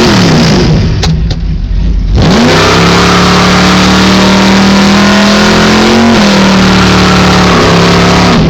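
A car engine running through open headers, very loud. It is revved hard about two seconds in and held at a steady high pitch for several seconds, then eased off.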